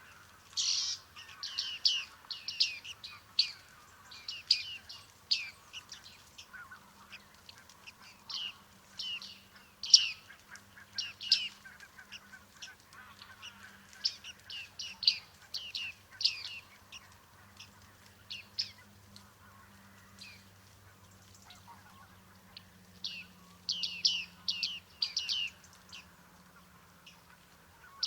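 Bearded tits calling: many short, sharp, nasal ping calls in irregular clusters, thinning out for a few seconds past the middle before a busy run near the end.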